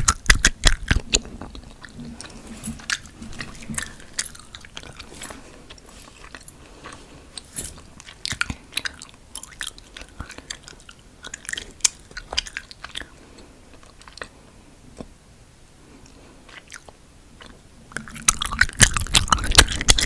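Close-miked gum chewing: wet clicks and smacks of a mouth working a piece of chewing gum, viciously chewed. The clicks come thick and fast in the first second and again near the end, sparser and softer in between.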